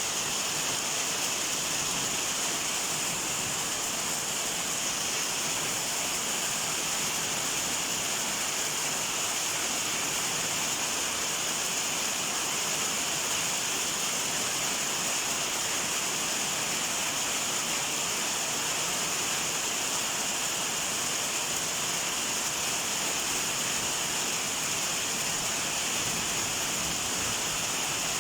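Steady heavy rain falling, an even hiss that holds constant, with no separate drops, thunder or other events standing out.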